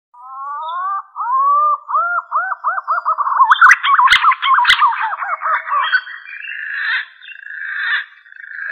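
Green pigeon (punai) calling: a run of whistled notes that rise and fall and quicken as they go, then a rougher, buzzier stretch of calling in the second half. Two sharp clicks come in the middle of the run.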